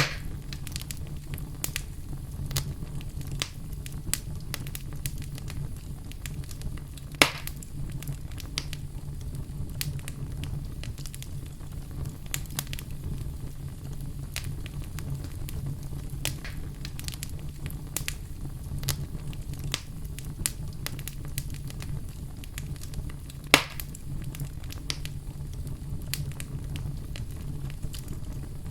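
Wood fire burning in a fireplace: a steady low rumble of the flames with frequent small crackles, and two louder pops, one about a quarter of the way in and one about four-fifths through.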